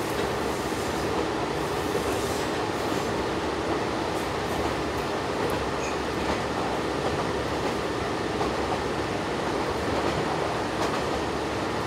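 Diesel railcar running along the line, heard from inside the passenger cabin: a steady mix of engine and wheel-on-rail noise.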